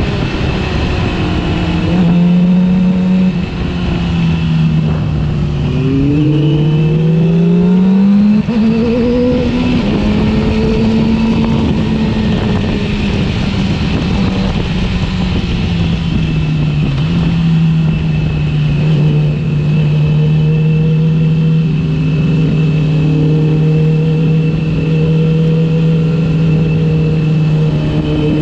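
Yamaha R6's inline-four engine running under way with wind noise, its pitch rising steeply as it accelerates, then dropping suddenly at a gear change. Later it settles to a steady lower note.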